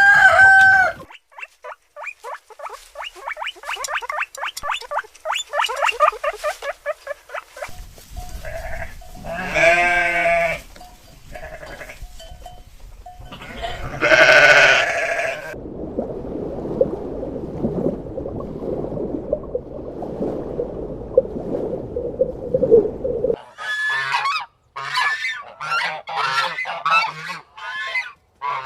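Farmyard animal calls in a run of short clips, led by geese honking in quick repeated calls. Near the middle comes a long drawn-out call and another loud call, then several seconds of low, noisy sound before the honking resumes.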